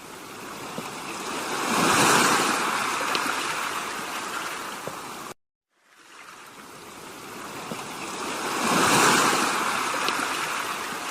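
Sea waves washing onto the shore, twice building to a peak of surf and then draining back. The sound cuts out abruptly for a moment between the two waves.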